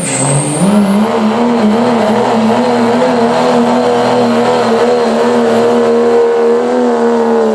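Cummins diesel engine of a 2006 Dodge pickup at full throttle, pulling a weight-transfer sled down the track. The revs sag briefly at the start, climb back within about a second and then hold high and steady, with a thin high whistle above the engine note.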